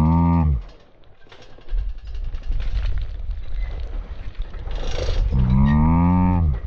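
Off-road motorcycle engine revving in two bursts about five seconds apart, each rising in pitch and then dropping off, with a low engine rumble in between.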